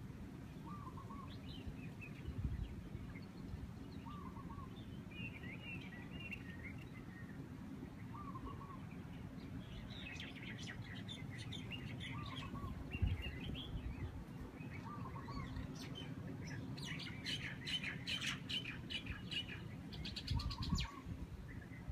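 Several birds chirping and calling. A short call repeats every few seconds, with higher chirps between, and a run of rapid, sharp chirping near the end. A steady low rumble of breeze runs underneath.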